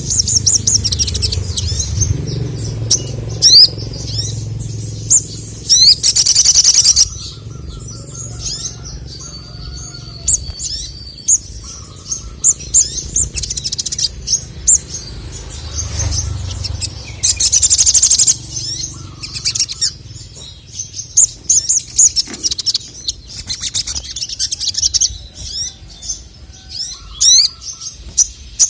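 Male sogon (sogok ontong), a nectar-feeding songbird, singing a long run of quick, high-pitched chirps and trills, with two loud dense bursts of song, about six seconds in and again about seventeen seconds in. A low hum runs underneath.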